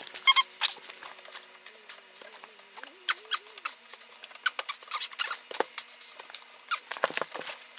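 Scattered small clicks and scrapes from working loose the fitting where a dishwasher's white water supply tube joins its copper line, with a faint wavering squeak for a couple of seconds.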